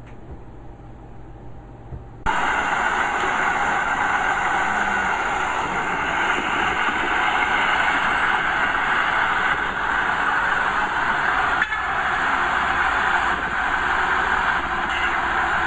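Earthmoving machinery's diesel engine: a low idle at first, then about two seconds in a sudden jump to a loud, steady machine noise that keeps on.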